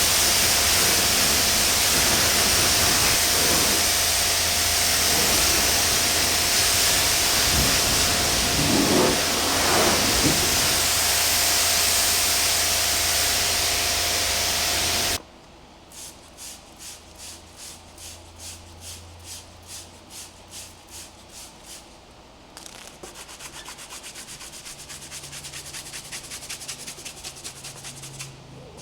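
Pressure washer spraying water onto a car, a steady loud hiss over a motor hum, that cuts off suddenly about halfway through. Then a wash mitt or towel rubbing over the paint in strokes about two a second, turning to quicker, denser rubbing near the end.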